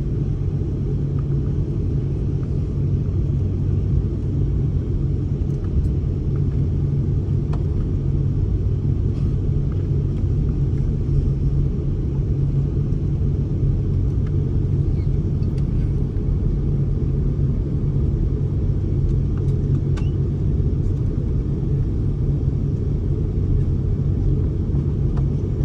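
Steady low rumble and hum of a passenger jet heard from inside the cabin, holding level without spooling up, with a few faint clicks.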